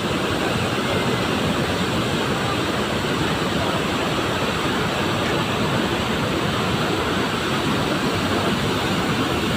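Waterfall: falling water giving a steady, unbroken rush.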